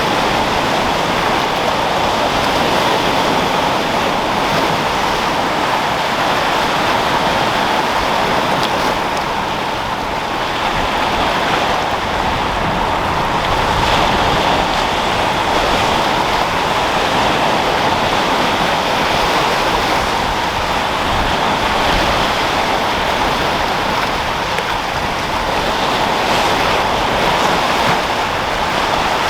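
Sea waves breaking and foaming against rocks with wind, a dense steady rush that swells and eases slightly.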